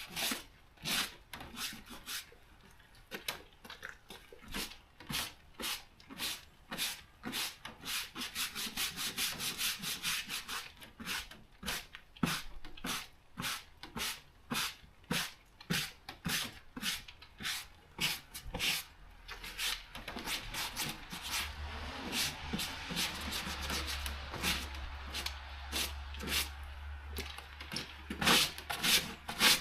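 Hand scraping or rubbing, in quick, regular back-and-forth strokes of about three a second. A low steady hum joins about twenty seconds in.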